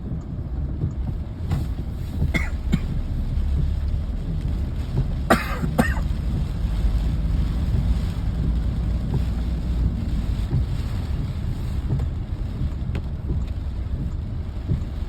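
Wind buffeting the microphone: a steady low rumble. A few short sharp sounds cut through it, the loudest a pair about five and a half seconds in.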